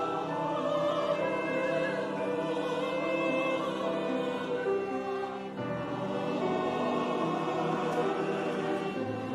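Church chancel choir singing a Christmas choral piece in sustained, held chords, moving to a new chord about halfway through.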